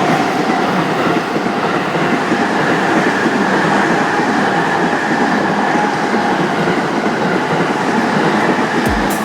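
A train passing close by over a level crossing: a loud, steady rumble of wheels running on the rails. Right at the end a few deep beats of music begin.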